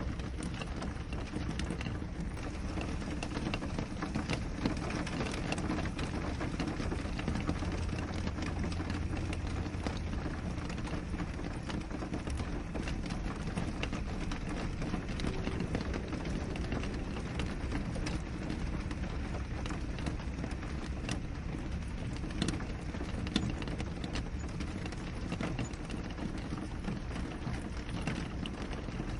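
Steady rain falling on a window, a dense even patter with many separate drops tapping sharply against the glass.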